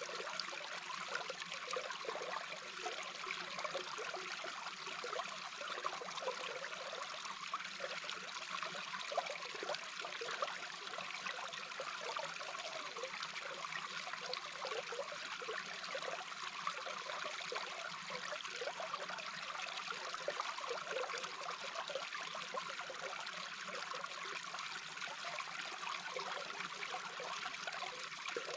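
A small brook's flowing water recorded underwater: a steady rush with dense, irregular bubbling and gurgling that never lets up.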